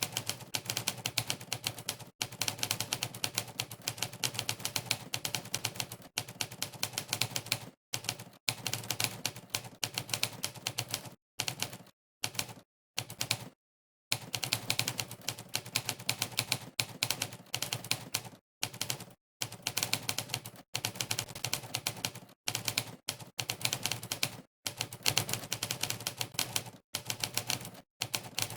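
Monkeytype's 'typewriter' typing sound effect: sampled typewriter key clicks fired rapidly, one per keystroke, during fast typing. They come in runs broken by short pauses of dead silence, several of them between about 11 and 14 seconds in.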